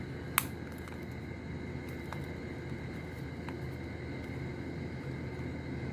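Steady low background hum, with one sharp click about half a second in and a couple of faint clicks later as a small plastic toy capsule is handled while someone tries to open it.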